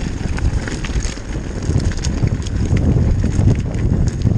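Downhill mountain bike clattering over wet, loose stones, with a constant rumble and many sharp knocks and rattles as the tyres hit rocks, under wind buffeting the microphone.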